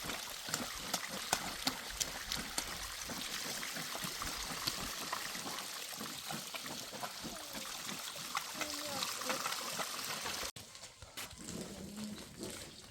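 Water trickling and pouring, with scattered sharp clicks. It cuts off abruptly about ten and a half seconds in, leaving quieter sound with a low, steady pitched call.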